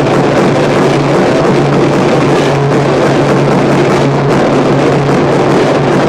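Harsh noise music: a loud, unbroken wall of distorted noise with a steady low hum underneath and no beat.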